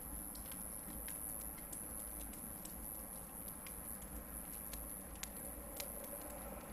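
Hardwood campfire burning, crackling with irregular sharp pops, a few louder than the rest, over a steady low rumble.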